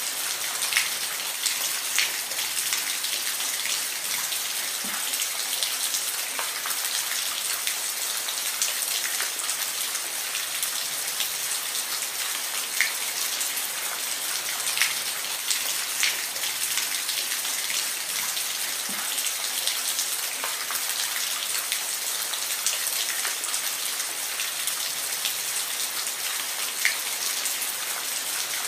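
Steady rain, an even hiss with individual drops ticking sharply here and there on a hard surface.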